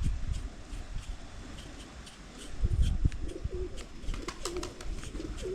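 A dove cooing, starting about three seconds in, with low thumps and light clicks around it.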